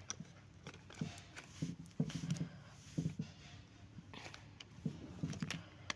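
Faint, irregular clicks and taps of small plastic toy parts being handled and fitted together.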